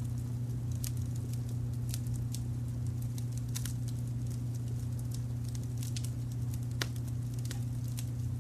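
Wood fire crackling with scattered small pops and one sharper pop near the end, over a steady low rumble of brown noise.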